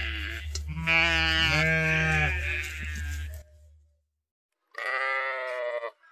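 Sheep bleating: several wavering bleats in a row over a low rumble for about three seconds, then a short pause and one more bleat near the end.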